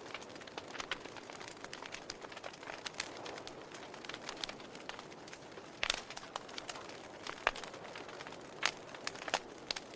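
Wood fire burning in a fireplace, crackling steadily, with irregular sharp pops, the loudest about six seconds in.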